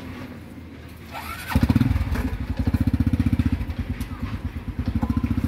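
Underbone motorcycle engine cranked and catching about one and a half seconds in, then running at a fast, even putter.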